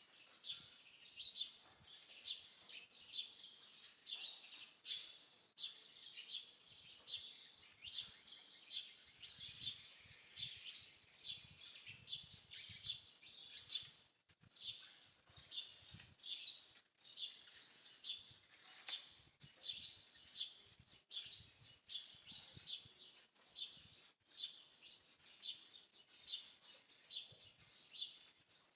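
A bird chirping over and over, short high calls about twice a second, with faint low knocks partway through.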